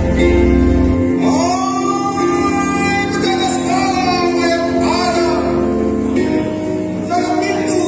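Music: a voice sings long, wavering held notes over steady sustained instrumental accompaniment, the singing entering about a second in.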